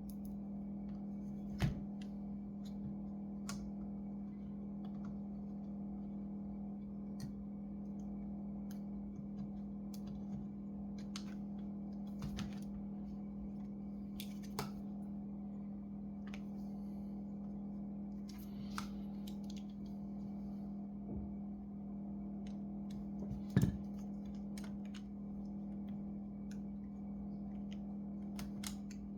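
Scattered small clicks and taps of hand tools and laptop parts being handled during a repair, over a steady low hum. Two louder knocks stand out, one about two seconds in and one about three-quarters of the way through.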